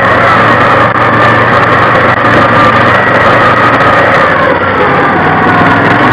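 Loud, steady vehicle engine noise with several high tones slowly wavering in pitch.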